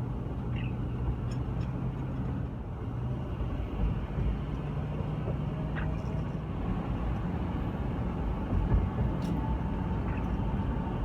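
Steady engine and road noise inside the cab of a Ford F-350 pickup carrying a truck camper at highway speed, with a low, even hum. A strong headwind adds wind noise leaking through the closed doors' seals.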